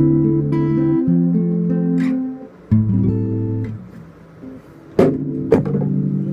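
Acoustic guitar playing the song's closing chords with no singing: held chords ring out, a new chord comes in about three seconds in and fades, then two sharp strums half a second apart near the end are left ringing.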